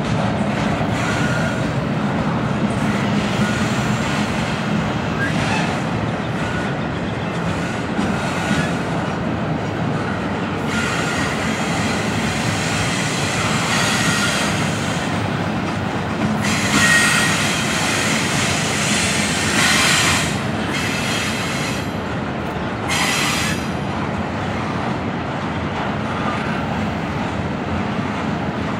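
Double-stack intermodal freight train rolling past: a steady rumble of steel wheels on rail from the passing container cars. Several short, louder, higher-pitched bursts come in the second half.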